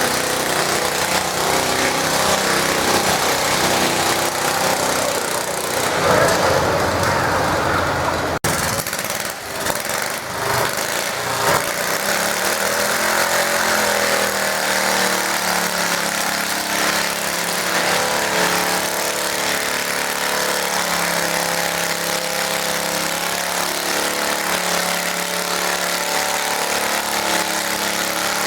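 Garden tractor engine running at a tractor pull, loud through the first part. The sound breaks off abruptly about eight seconds in and resumes with an engine running at a steady pitch.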